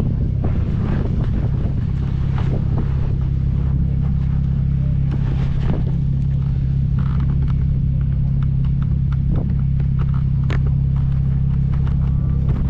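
Alpine A110S's turbocharged four-cylinder engine idling steadily, with scattered light clicks and rustles over it.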